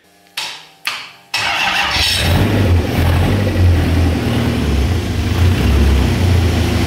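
Toyota 1UZ-FE 4.0-litre V8 cranking briefly, catching about a second and a half in, then running steadily. It is being run to build oil pressure after its dry oil pump was primed by hand.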